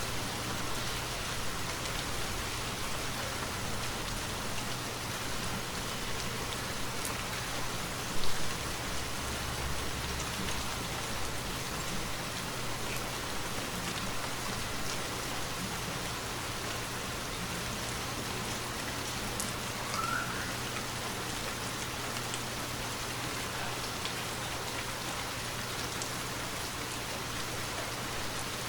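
Steady, continuous rainfall. There is a single brief, loud thump about eight seconds in.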